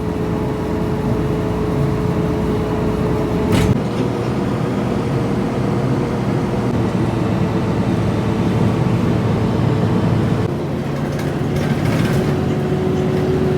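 Road vehicle running: steady engine and road noise with a low hum, changing abruptly about four seconds in and again near ten seconds.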